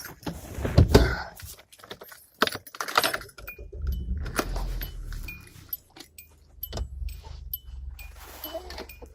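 Metallic jangling and clicking, like keys or hardware being handled, then a steady low car-engine rumble from about three and a half seconds in, with faint short high beeps repeating.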